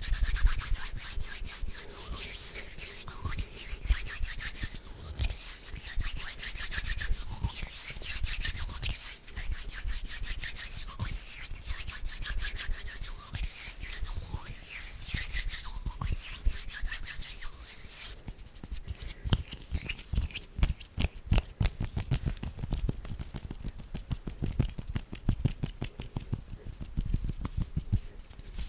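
Close-miked bare hands rubbing and fluttering together: dry, rustling skin-on-skin strokes. In the last third this turns into a rapid run of light, sharp finger clicks and taps.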